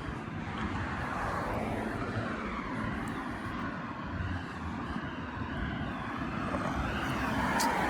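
A steady vehicle rumble that slowly grows louder toward the end.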